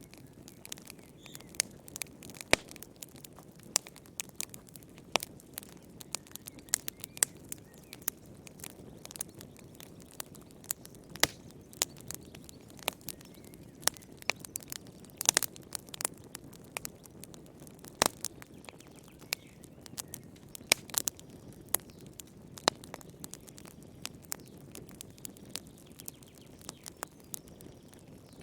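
Wood fire burning in a fireplace, irregular crackles and sharp pops over a low steady hiss, with a few louder pops.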